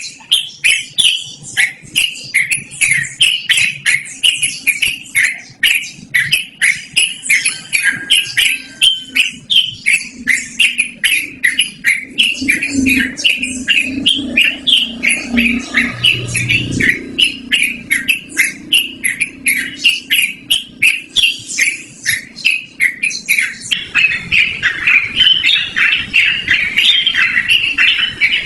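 Yellow-vented bulbul (trucukan) singing a long, unbroken run of quick chattering notes, about three a second, that crowd together near the end.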